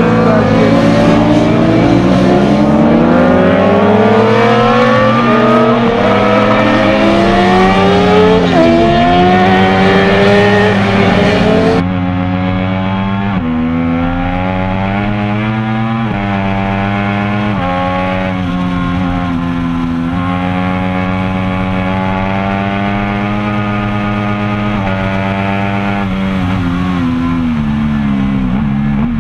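Racing motorcycle engines revving hard, their pitch climbing again and again through the gears, with more than one engine overlapping. About twelve seconds in the sound turns duller and a little quieter: a single engine heard from an onboard camera, a Triumph Daytona 675R's inline three-cylinder, its pitch stepping up and down with throttle and gear changes.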